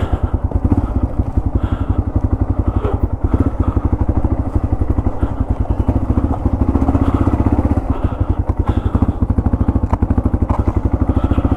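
Yamaha TW200's single-cylinder four-stroke engine running steadily, its exhaust pulses in a fast even beat.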